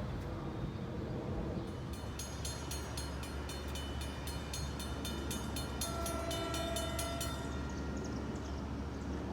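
Train rumbling at a station while a warning bell rings rapidly, about four strikes a second, for several seconds and then stops. About six seconds in, a distant train horn starts sounding a steady chord.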